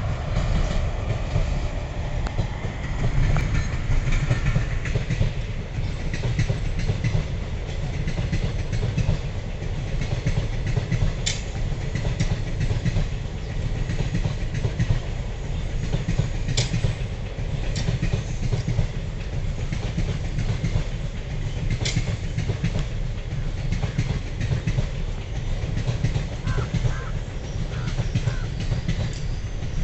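Indian Railways express train passing close by: the electric locomotive goes by first, then a long line of passenger coaches rolls past with a steady heavy rumble and the dhadak-dhadak clatter of wheels over rail joints, with a few sharp clicks.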